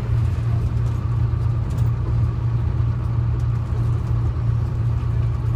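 Detroit Diesel 6V71 two-stroke V6 diesel of a GMC New Look transit bus running at a steady, unchanging speed, a low engine drone.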